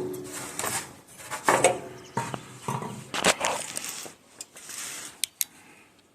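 Hands handling metal tractor parts: irregular scraping and rustling, with a few sharp metallic clicks a little after the middle.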